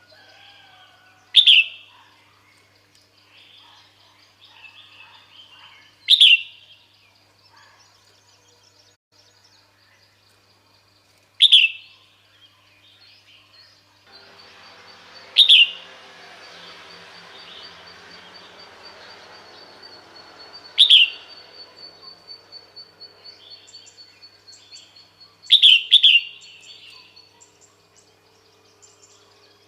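Female red-whiskered bulbul giving a short, sharp call note about every five seconds, the last two close together: the female's call used to draw males in. Softer bird twittering fills the gaps, with a faint hiss through the middle part.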